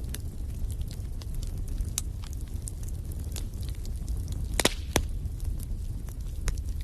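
Wood fire crackling in a fireplace: a steady low rumble of burning with scattered sharp pops, the two loudest coming about four and a half and five seconds in.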